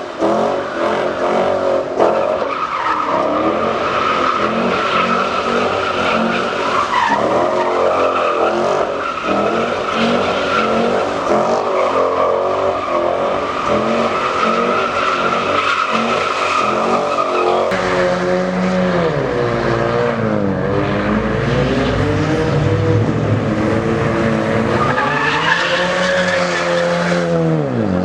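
Tyres squealing steadily in a burnout with the engine held at high revs. About two-thirds of the way through the sound changes abruptly to a deeper engine being revved, its pitch falling and rising repeatedly.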